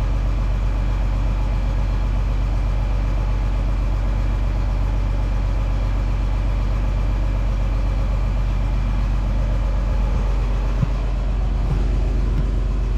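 Tractor engine idling steadily, with a single short knock about eleven seconds in.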